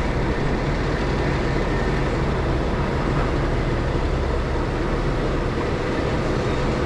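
Boat's engine running steadily under way: a low, even drone with a constant hiss over it.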